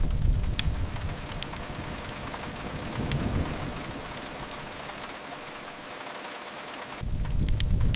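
Steady rain hiss mixed with the sharp crackles and pops of a fireplace fire. A low rumble swells at the start, again about three seconds in, and near the end.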